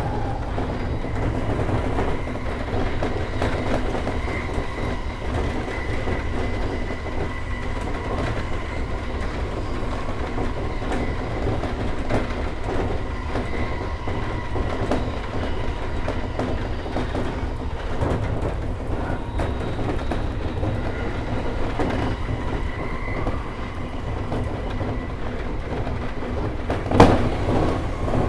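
Running noise of a JR E231-1000 series electric commuter train at speed, heard from inside the front car: a steady rumble of wheels on rail with scattered clicks and a faint steady whine. Near the end, one sharp loud clack.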